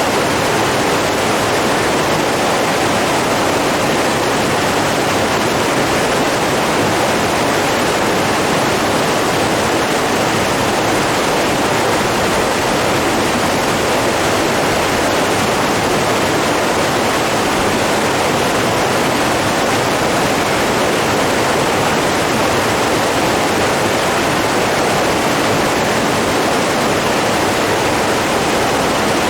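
Steady rush of flowing water, unbroken and even, with no separate splashes or other events.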